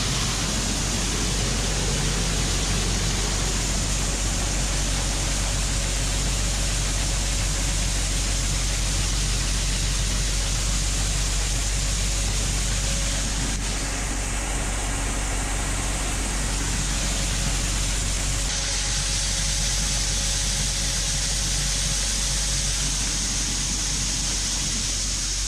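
Steady machine noise from a truck's corn-unloading setup: a low engine hum under a constant rushing hiss as shelled corn is emptied from the truck. The hiss changes slightly about two-thirds of the way through but never stops.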